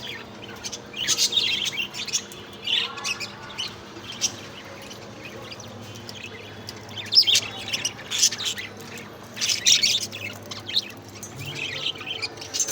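Several pet budgerigars chirping and chattering in short, quick bursts, with gaps between the bursts.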